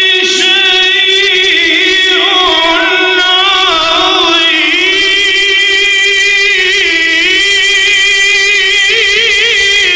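Quran recitation (tajweed): a single voice chanting a long, drawn-out melodic line, holding notes with wavering ornaments and no pause for breath.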